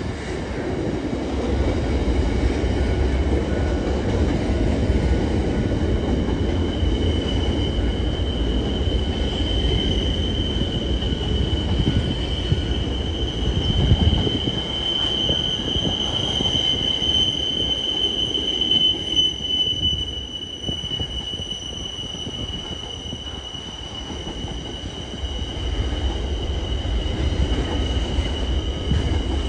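Container wagons of a freight train rolling past, with a steady low rumble of wheels on rail. About seven seconds in, a steady high-pitched wheel squeal sets in and carries on over the rumble.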